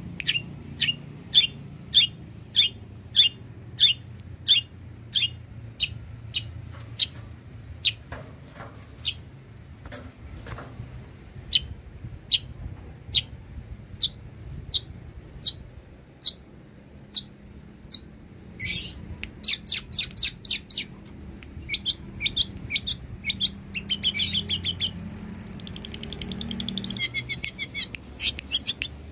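Long-tailed shrike singing: a long run of sharp, high, repeated notes, about two a second. In the second half it changes to fast trilling chatter.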